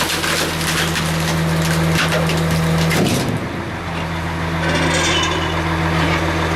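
Garbage truck's hydraulic compactor press crushing a load, with dense cracking for about the first three seconds that then eases off, over the steady low hum of the truck's idling engine driving the press.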